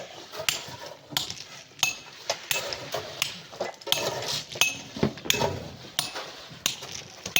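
Metal hand tools striking rock and hard-packed sand in regular blows, about three every two seconds, each a sharp clink with a short metallic ring, with scraping and loose material falling between blows.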